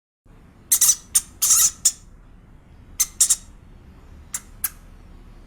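Bird calls: a series of short, high-pitched squawks, some coming in quick pairs, over a steady background hiss.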